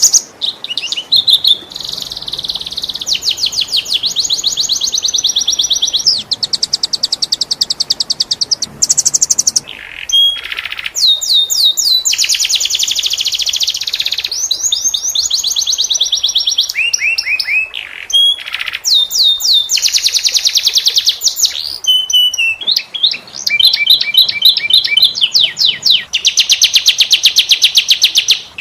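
Domestic canary singing a fast, varied song of rolling trills and rapid repeated notes, switching to a new phrase every second or two with brief pauses between runs.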